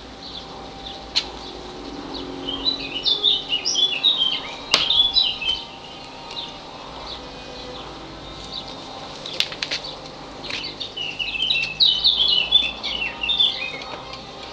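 A songbird singing two phrases of rapid chirping notes, each a few seconds long, with a few sharp clicks between them.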